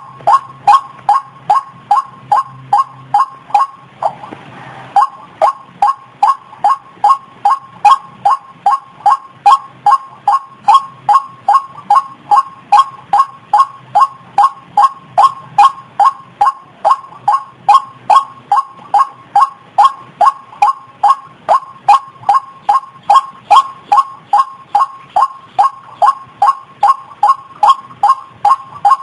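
White-breasted waterhen calling: a loud, monotonous run of 'ruak' notes, about two to three a second, with a brief break about four seconds in.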